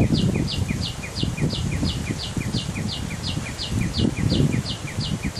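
A bird calling a fast, even series of short falling notes, about three a second, each followed by a fainter lower note, over low rustling.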